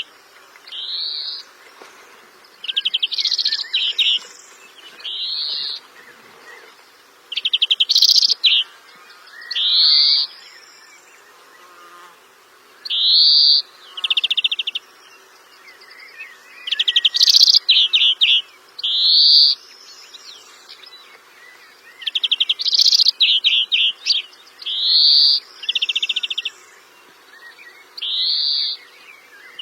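A bird singing short repeated phrases every second or two, alternating clear rising whistled notes with buzzy trills.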